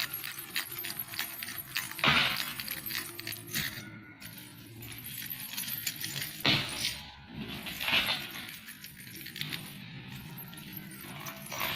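Small silver ghunghru bells on a heavy silver kamarband (waist chain) jingling as it is shaken, a dense metallic jangle with louder shakes about two, six and a half, and eight seconds in.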